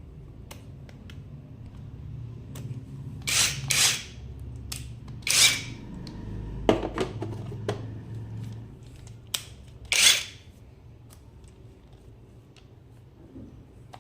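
Handling noises of an unboxing: a few short rustling scrapes and a run of sharp clicks, over a low steady hum.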